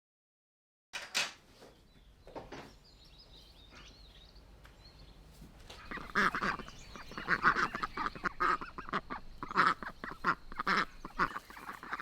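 Ducks quacking in a loud, rapid run of repeated calls through the second half, after a single knock about a second in.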